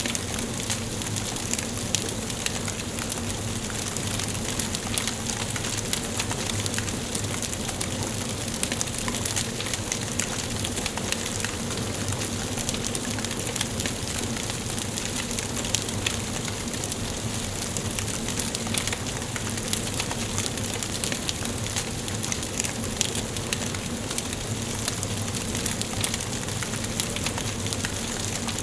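Wood fire burning in a fireplace: a steady hiss with frequent small crackles and pops scattered throughout.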